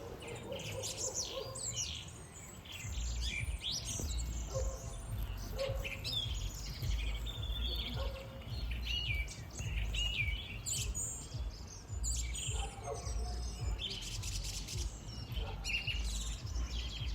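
Several birds chirping and singing in many short, overlapping calls, with a low rumble underneath from about three seconds in.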